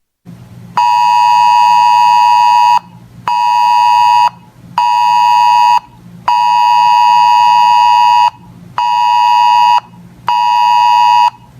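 Weather alert radio sounding its alert beep at about 1 kHz, in a pattern of one two-second beep then two one-second beeps, played twice: the signal that an incoming weather alert is about to be read out.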